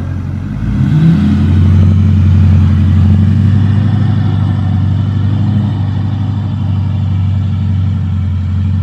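Motor vehicle engine speeding up about a second in, then running steadily at higher revs.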